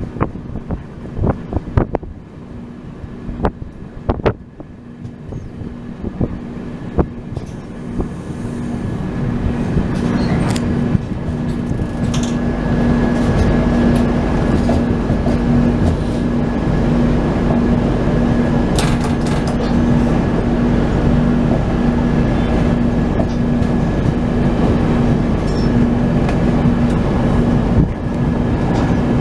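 Passenger train running along the track, heard from on board: wheels clicking over rail joints at first, then about ten seconds in the noise grows louder into a steady rumble with a low hum that holds until near the end.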